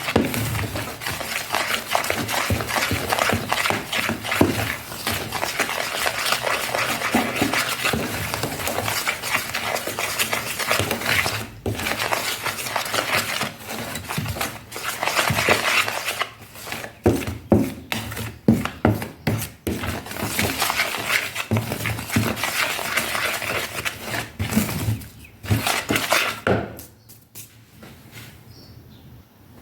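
A utensil stirring ingredients in a mixing bowl: rapid scraping and clinking against the bowl with a few short pauses, stopping a few seconds before the end.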